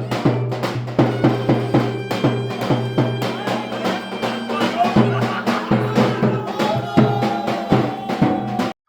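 Turkish folk dance music (oyun havası) with a quick, steady drum beat and a reedy wind melody over a held drone. The sound cuts out for an instant near the end.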